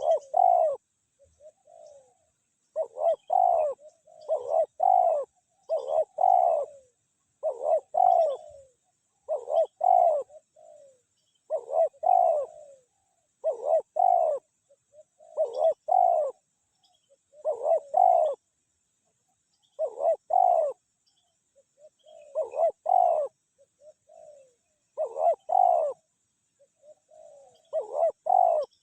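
Spotted dove cooing over and over: short groups of two or three low notes about every two seconds, with fainter notes between them.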